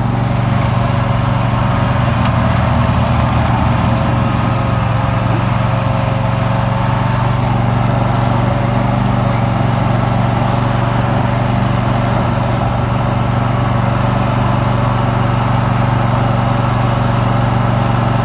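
Riding lawn mower engine running steadily under way, a constant hum.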